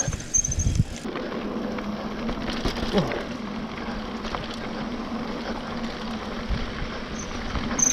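Mountain bike rolling down a dirt trail: a steady rush of tyre and wind noise with a low hum, and a few knocks from the bike going over bumps in the first second.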